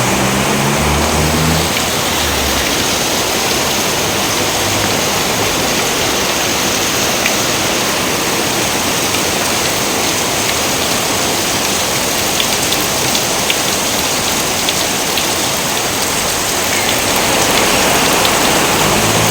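Steady heavy rain, a dense even hiss, with scattered sharp drip ticks in the second half. Low pitched tones sound underneath at the start and come back near the end.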